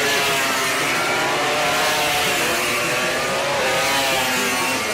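MotoGP racing motorcycle engines at high revs, their pitch climbing and dropping with gear changes and throttle, more than one bike running together.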